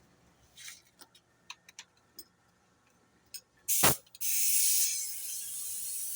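A few faint clicks and taps, then a short blast of air about four seconds in. After that a paint spray gun starts spraying with a steady hiss.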